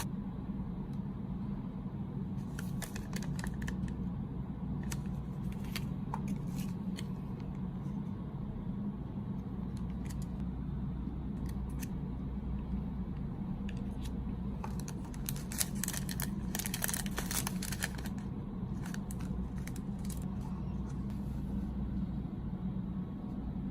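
Snack packaging being handled and cut: scattered snips, clicks and crinkles, busiest about two thirds of the way through, over a steady low hum.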